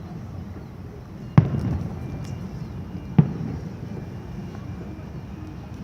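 Two fireworks bursting, about a second and a half apart, each a sharp bang followed by a short rumbling echo.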